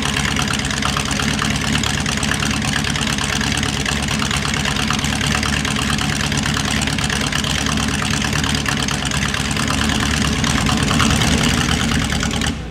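Ford 351 Cleveland 5.8-litre V8 of a De Tomaso Pantera race car idling steadily, heard close to the open engine bay, getting a little louder about ten seconds in.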